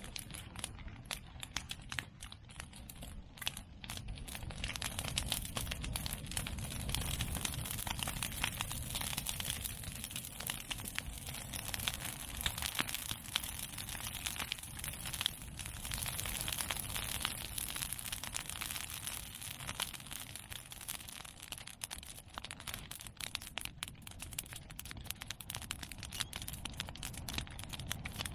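Bonfire of cut medake bamboo and chestnut prunings crackling and popping densely and without pause over a steady low noise of the flames, growing louder about four seconds in.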